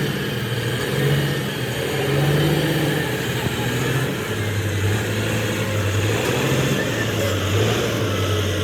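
Rebuilt excavator's diesel engine running, its speed dropping about four seconds in and then holding steady at a lower pitch.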